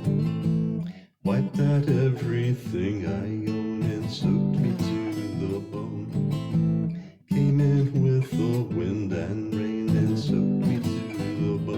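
Acoustic guitar strummed chords in an instrumental break of a song, with two short breaks in the strumming, about a second in and about seven seconds in.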